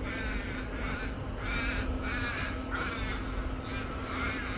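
Ravens cawing: a run of short, harsh, repeated caws from several birds perched in a tree.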